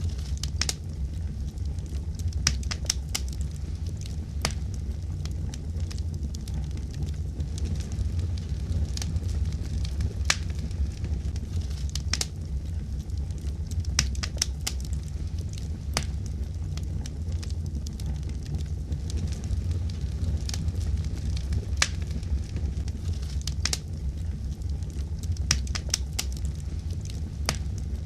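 Fireplace fire crackling, with frequent sharp pops over a steady low rumble.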